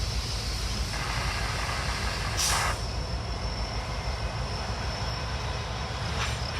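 A train running by with a steady low rumble. A short, sharp hiss comes about two and a half seconds in, and a fainter one near the end.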